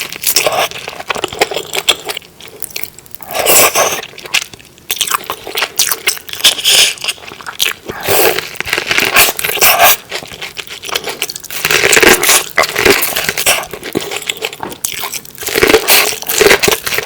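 Close-miked eating: loud crunching bites and chewing of food in repeated bursts every few seconds.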